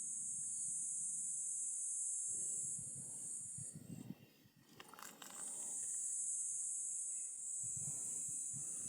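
A high, steady insect buzz in two long stretches, breaking off for about a second and a half a little before the middle. Faint low rustling and a brief click come in the gap.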